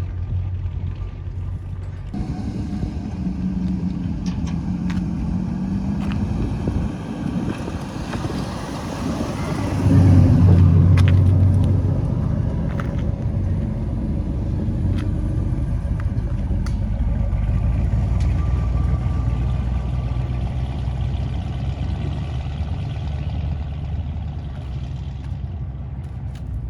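Car engines running as cars pull away, a low rumble throughout, loudest for about two seconds around ten seconds in as one car comes close, then settling back to a steady rumble.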